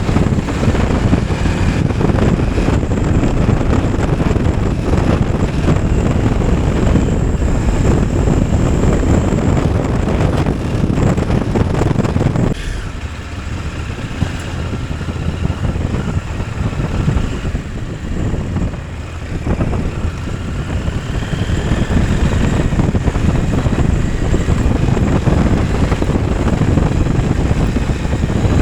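Motorcycle on the move: engine and wind noise on the microphone. It drops quieter for about seven seconds partway through, then comes back up.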